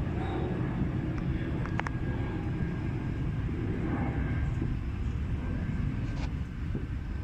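Jet airliner engines giving a steady low rumble, with a brief sharp click about two seconds in.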